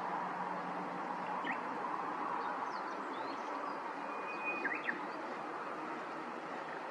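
Steady rushing background noise with a few short, high bird chirps, once about a second and a half in and a small cluster near the middle.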